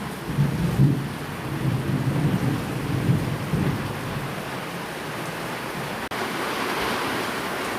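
Steady rain with low rolling thunder that fades out over the first few seconds. About six seconds in the sound drops out for an instant, and a brighter, even rain hiss follows.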